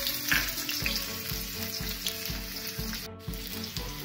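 Chopped ginger and garlic sizzling in hot oil in an iron kadhai, a steady frying hiss, over background music with a steady beat. The sound briefly drops out about three seconds in.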